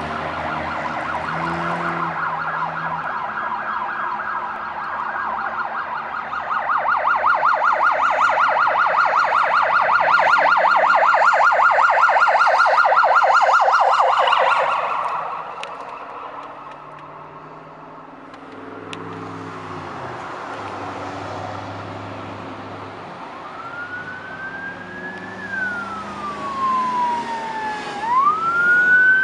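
Fire engine sirens. A loud, fast warbling yelp fades out about halfway through, a low engine rumble follows, then a wailing siren slowly rises and falls twice near the end.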